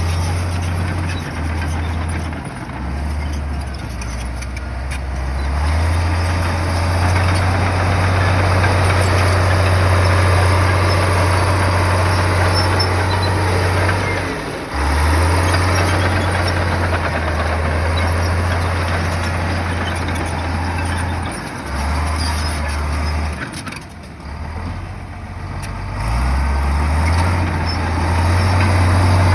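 Heavy earthmoving machine's diesel engine working under changing load: a loud low drone that steps up and down in pitch and strength and drops away briefly twice, with a broad noisy wash of machine work over it.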